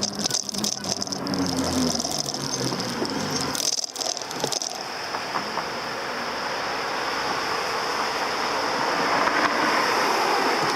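E-bike riding noise picked up by a handlebar-mounted camera: rattling for the first few seconds, then steady road and wind noise with a steady high whine that swells louder near the end.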